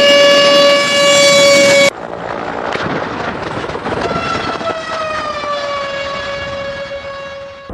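A loud, steady horn-like tone that cuts off abruptly about two seconds in. It is followed by a noisy rumble with a second horn-like tone that sags slightly in pitch and holds near the end.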